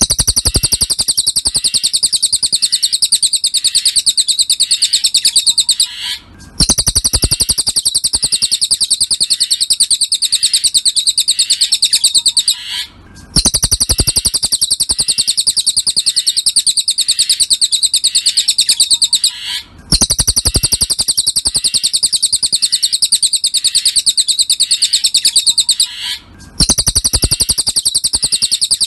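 Cililin song: a very fast, continuous trill of rapid high notes in phrases about six seconds long, each broken by a short gap and repeated at even spacing, as in a looped tutor recording for training cage birds.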